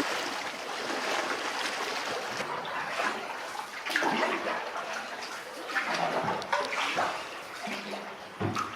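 Water splashing and trickling, with a few louder splashes along the way.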